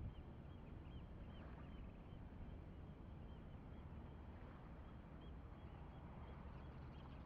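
Faint outdoor ambience: a steady low rumble with a scatter of short, high bird chirps.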